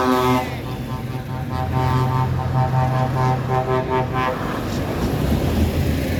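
Tractor engine running with a steady low drone. Over it a steady pitched tone sounds in a run of short notes, like a vehicle horn playing a tune, and stops about four seconds in.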